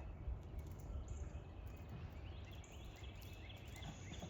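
Steady low background rumble, with a run of short, quick bird chirps starting about halfway through.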